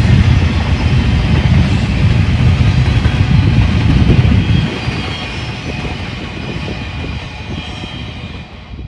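A train passing close by: a loud rumble of wheels on rail that drops off about halfway through and keeps fading.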